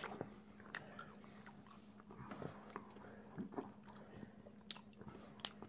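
Faint chewing of a hazelnut macaron, a few soft scattered mouth clicks, over a low steady hum.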